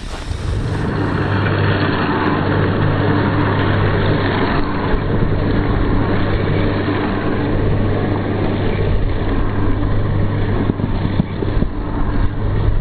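A vehicle running steadily, with a constant low hum over an even rush of noise.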